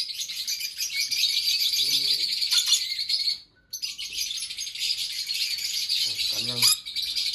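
Many small birds chirping at once in a dense, continuous chatter of high chirps, which cuts out briefly about halfway through.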